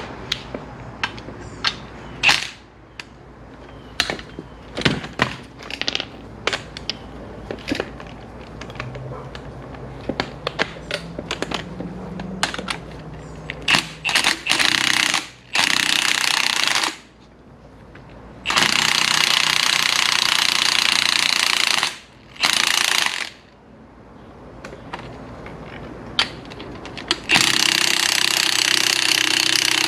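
Impact wrench hammering in four bursts of one to three seconds each, tightening the nut on the new strut assembly. Metal clicks and knocks from handling the parts come before the first burst.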